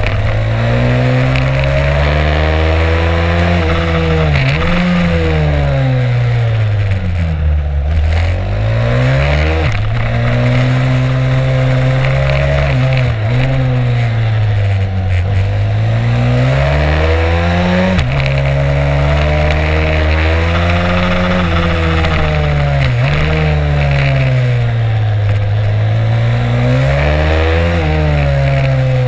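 Stomp 140 pit bike's single-cylinder engine revving hard on track, its pitch climbing and falling over and over as it pulls out of corners and backs off, with several sudden drops in pitch.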